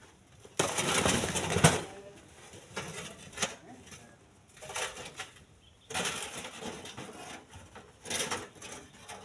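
Chunks of split stone clattering and knocking together as they are loaded by hand, in several separate bursts. The first, about half a second in, is the longest and loudest.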